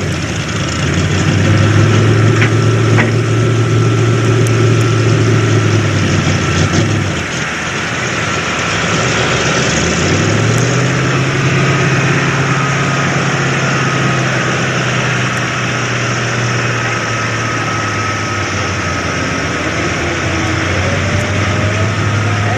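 Two-wheel-drive pickup truck engine running steadily at the truck pull. The note drops away about seven seconds in and comes back about three seconds later at slightly higher revs, then holds steady.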